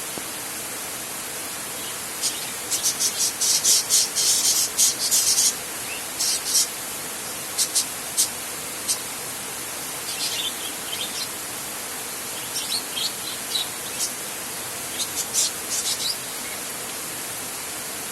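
Steady hiss of heavy rain on a metal roof, with clusters of short, sharp high chirps over it, thickest about two to five seconds in and again near the end.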